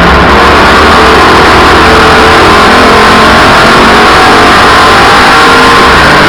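Race car engines running hard on the track, a loud, steady engine noise with no let-up.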